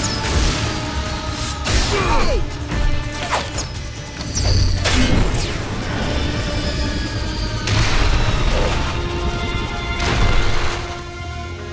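Cartoon action-scene soundtrack: a dramatic music score with crashing impacts and whooshing sound effects laid over it.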